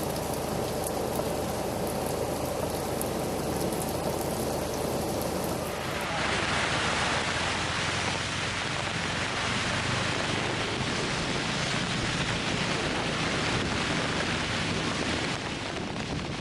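Heavy rain falling in a steady hiss, with a low steady hum beneath it at first. About six seconds in, the sound changes abruptly to a brighter, slightly louder rain hiss.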